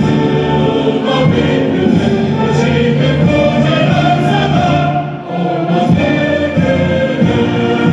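A choir of many voices singing together over instrumental accompaniment, with sustained held notes and a brief dip about five seconds in.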